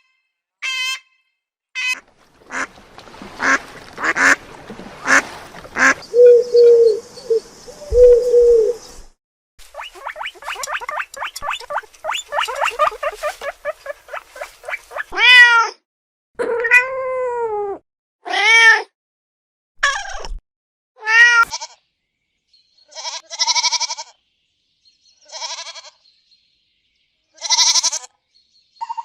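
A string of different animal calls, one after another with abrupt cuts and short silences between them. Around the middle come several arching, whining calls.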